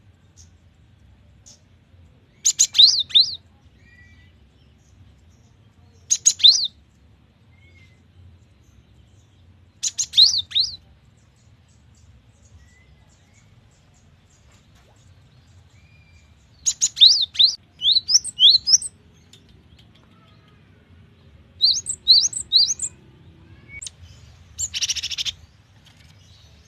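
Cinereous tit (gelatik batu) singing: short phrases of quick, high whistled notes, repeated every few seconds with pauses between. A longer run of notes comes about 17 s in, and a harsh, buzzy call near the end.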